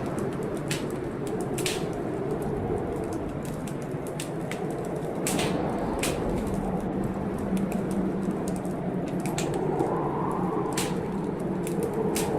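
Wood fire crackling in a fireplace, with irregular sharp snaps and pops, over a steady rushing noise of a rainstorm.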